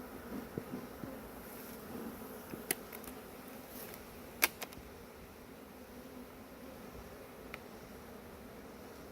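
Swarm of honeybees buzzing around an open hive and exposed honey, a steady hum. A few sharp clicks cut in, the loudest about halfway through.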